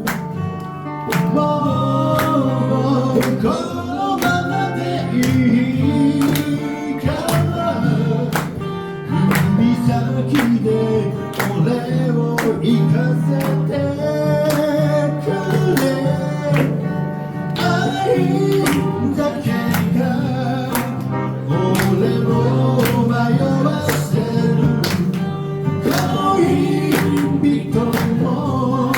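Live band playing a Japanese pop song: guitar over a steady beat, with a voice singing a melody line.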